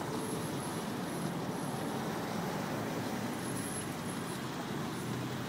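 Steady low running sound of a parked Mercedes-Benz SL55 AMG, with faint high whines coming and going.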